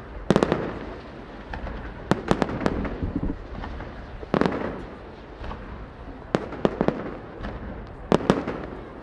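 Aerial fireworks bursting overhead: sharp bangs and crackling in clusters every couple of seconds, with a low rumble between them.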